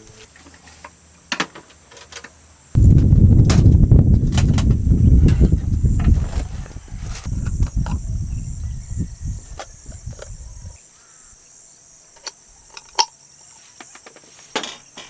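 Wind buffeting the microphone in a loud low rumble that starts suddenly about three seconds in, eases off and stops abruptly near eleven seconds. Crickets drone steadily high up, with scattered sharp clicks throughout.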